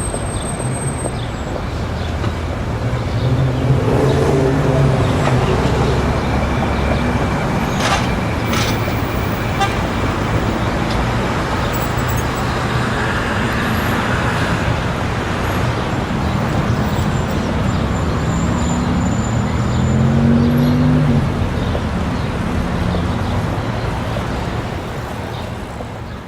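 Busy city street ambience: steady traffic with vehicles passing, their engine pitch rising and falling, and a car horn tooting. The sound fades out near the end.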